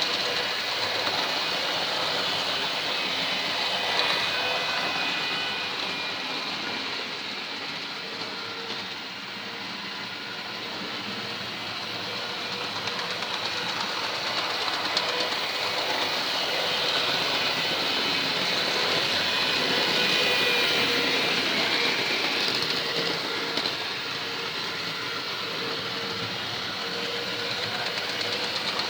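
OO gauge model locomotive and its wagons running on model railway track: a steady motor hum with the rattle of small wheels on the rails. It fades about a third of the way through, then grows louder again, loudest past the middle.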